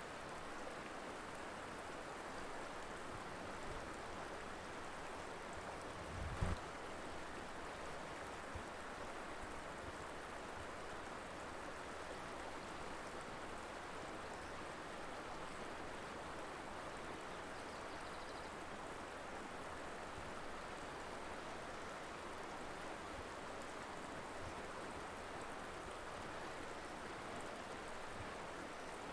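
River water flowing over rocks, a steady rushing sound. A brief low thump about six and a half seconds in.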